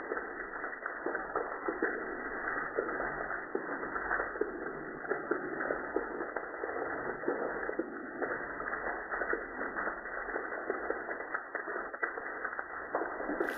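Rain falling steadily, with many small drops ticking on leaves and surfaces. The sound is dull and thin, with no high end.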